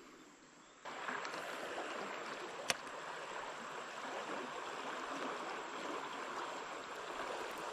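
Creek water running steadily, starting abruptly about a second in, with a single sharp click about three seconds in.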